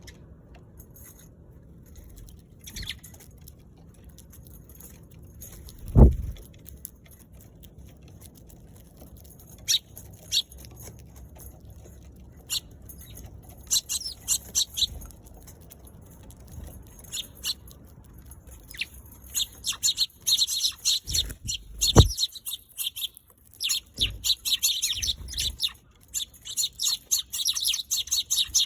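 Eurasian tree sparrows chirping in short high notes, sparse at first and busier and more continuous through the second half. Two loud low thumps, one about six seconds in and one about twenty-two seconds in, stand out above the chirping.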